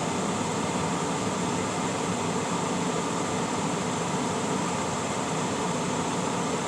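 Steady rumble and hiss inside a semi-truck cab as the truck creeps along at low speed with its diesel engine running.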